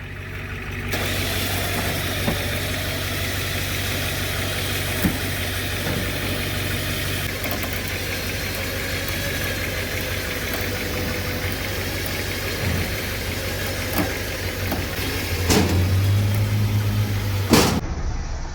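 An engine running steadily under load, with scattered clanks and knocks and two loud bangs near the end.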